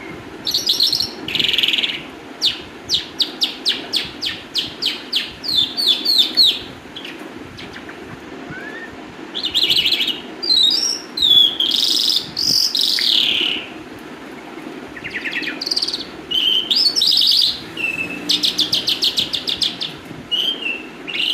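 Calandra lark singing: loud, varied phrases of quick repeated chirps at about three a second, mixed with rising and falling warbled notes and broken by short pauses.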